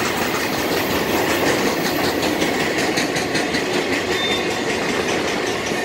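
Union Pacific intermodal freight train's double-stack container cars rolling past at speed, their wheels clicking over the rail joints in a steady rhythm.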